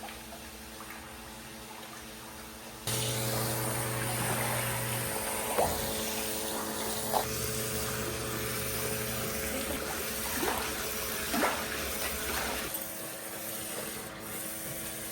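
An electric water pump switches on about three seconds in and runs steadily with a low hum, moving water, with a few light knocks along the way.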